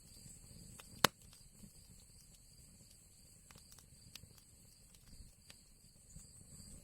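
Fire crackling in an old chimney: scattered sharp pops and ticks, with one loud pop about a second in, over a faint low rumble.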